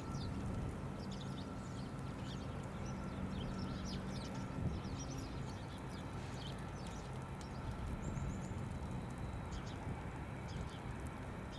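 Small birds chirping in quick, scattered bursts over a steady low rumble.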